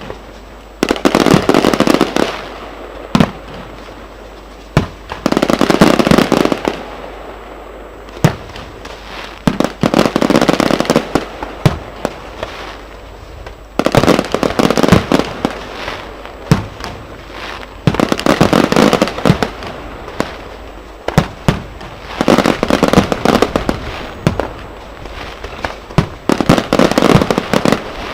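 Aerial fireworks going off: loud spells of rapid crackling bangs, each lasting a second or two and coming back about every four seconds, with single sharp reports in between.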